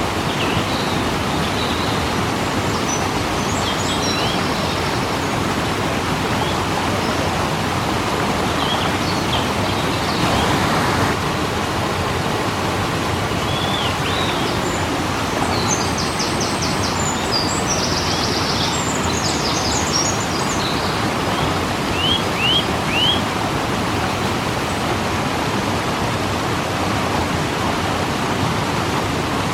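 Waterfall rushing steadily. Small birds chirp now and then above it, with a quick run of chirps about halfway through and three short chirps a little later.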